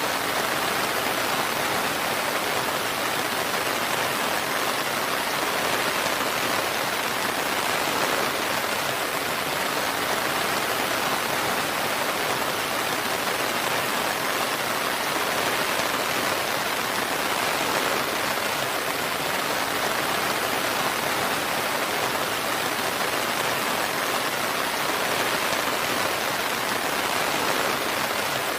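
Steady rain falling, an even, unbroken hiss that keeps the same level throughout.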